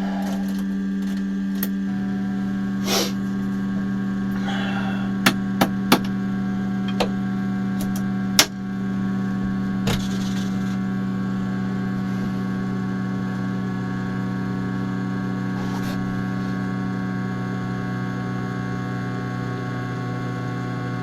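Steady electrical hum with a whine of several tones, which grows stronger about two seconds in. It is broken by a few sharp clicks, three close together about five to six seconds in and a louder knock near the middle.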